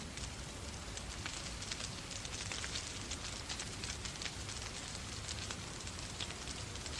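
Wood fire crackling in a fireplace, with many quick irregular pops, over a steady hiss of falling rain.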